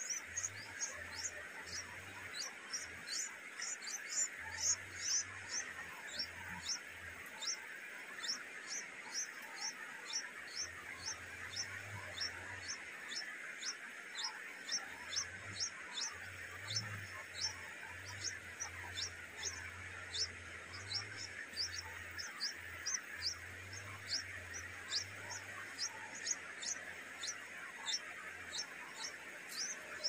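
Small birds chirping: short, high, thin chirps repeated two or three times a second, over a steady hiss.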